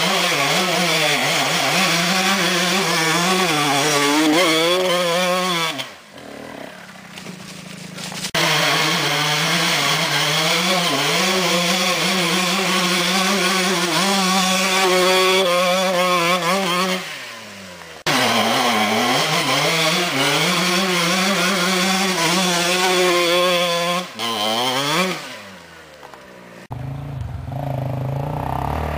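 Off-road motorcycle engine revving hard under load on a hill climb, its pitch wavering up and down. It drops off briefly three times, about 6, 17 and 25 seconds in, and picks up again each time.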